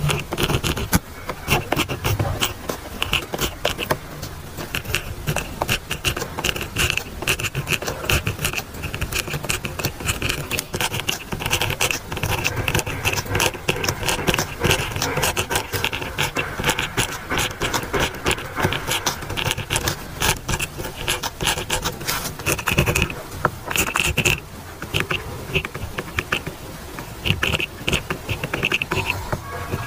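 Pen writing on paper: a steady run of quick scratching strokes as words are handwritten, with short pauses between them.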